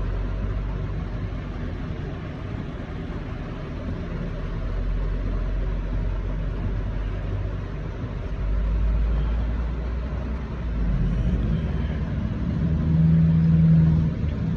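Steady low rumble of road vehicles, swelling twice as vehicles pass, with a louder humming engine note near the end.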